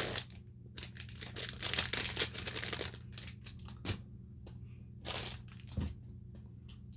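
Plastic packaging crinkling and rustling as a fidget spinner is unwrapped: a busy stretch of crackles for about three seconds, then a few separate rustles.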